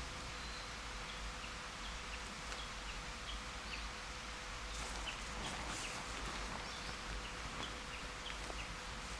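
Steady outdoor hiss with scattered short, high chirps throughout and a cluster of sharp crackles about five to six seconds in.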